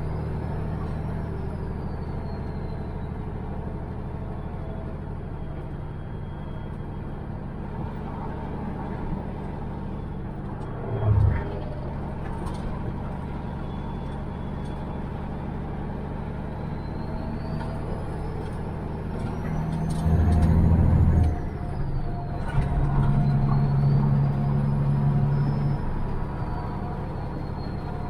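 Peterbilt truck's diesel engine running while driving, with a faint high turbo whistle that rises and falls. The engine grows louder for a moment about 11 seconds in and again for longer stretches about two-thirds and three-quarters of the way through.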